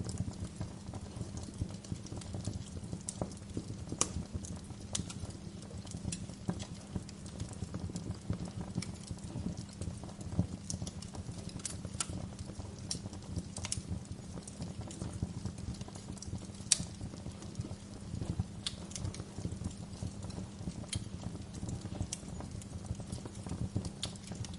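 Fire crackling in a fireplace: a steady low rumble under irregular sharp pops and snaps, a few of them louder than the rest.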